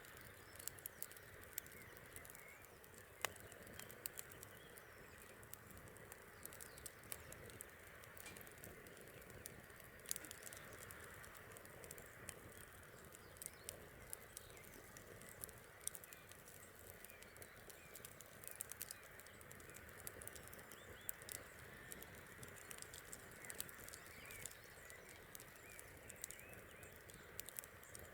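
Bonfire crackling: scattered sharp snaps and pops at irregular intervals, over a faint steady hiss.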